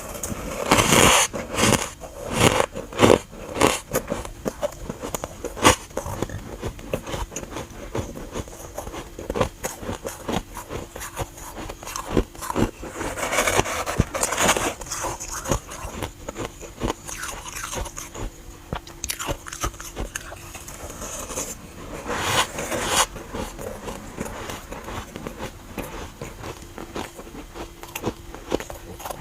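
Close-up biting and chewing of dry, powdery freezer frost chunks, a dense run of squeaky crunches. The crunching comes in louder bouts about a second in, around the middle, and about three-quarters of the way through.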